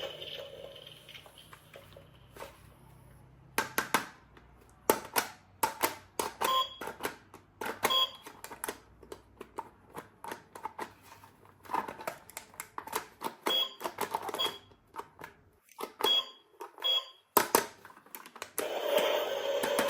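A run of irregular, sharp mechanical clicks and clacks, some with a brief ringing ping, as of a small hard mechanism being worked by hand.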